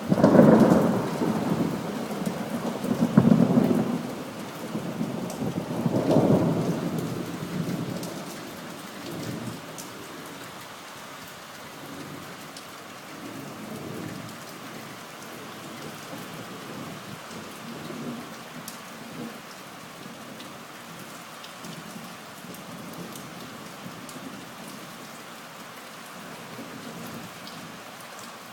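Thunderstorm: a loud thunderclap right at the start, rolling on in rumbles that swell again about three and six seconds in and fade out by about nine seconds. Steady rain runs under it, with faint distant rumbles later on.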